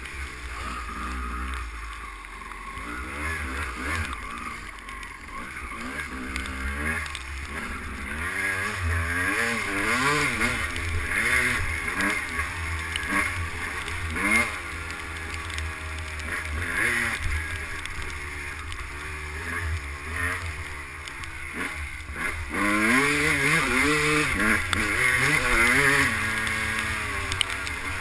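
Two-stroke 250cc motocross bike engine being ridden, its pitch rising and falling over and over as the rider revs through the gears, with wind rumbling on the microphone. It gets louder near the end.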